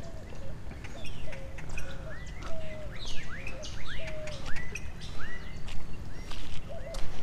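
Birds calling: a quick series of short whistled notes, several a second, many of them sweeping upward, over a low steady rumble.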